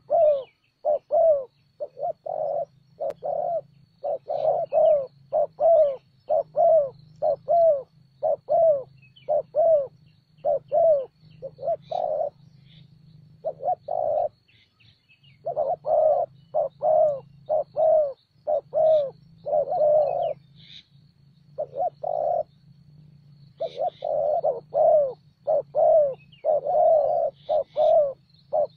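Spotted doves cooing loudly, short low coos repeated about twice a second in long runs with a few brief pauses. Faint high chirps of other small birds sound now and then.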